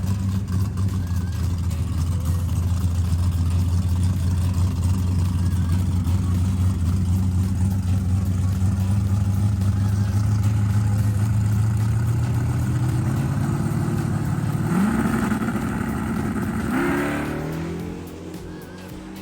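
Drag racing car engine running with a steady low drone, then revving up with the pitch climbing in two steps before the sound falls away near the end as the car accelerates off.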